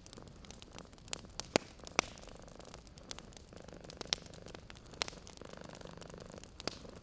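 Wood fire crackling, with sharp scattered pops, over a cat purring steadily.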